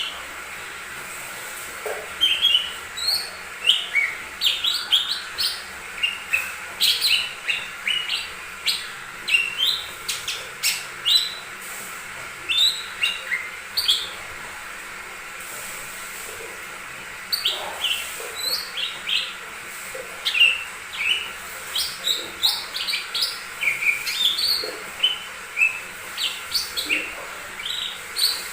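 Cucak ijo mini (a small leafbird) singing a rapid run of short chirps and whistles, pausing briefly about halfway through.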